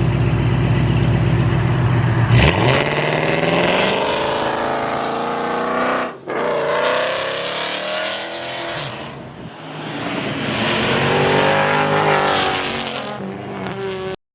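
Car engine accelerating hard through the gears. The engine holds a steady deep note for about two seconds, then climbs in pitch, breaking briefly for shifts about six seconds in and again about nine and a half seconds in before climbing once more. The sound cuts off suddenly near the end.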